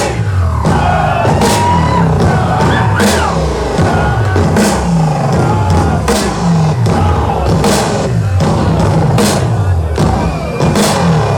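A hard rock band playing live, with drum kit, bass and electric guitar. Cymbal crashes land at a steady beat over a repeating bass line, and the guitar plays sliding, bending notes.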